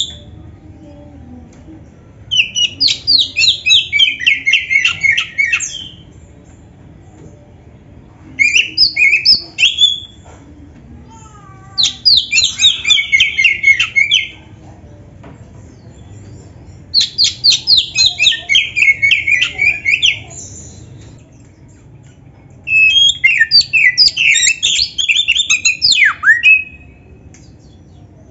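Oriental magpie-robin (kacer) singing in five phrases of quick repeated notes, each two to four seconds long, with short pauses between them.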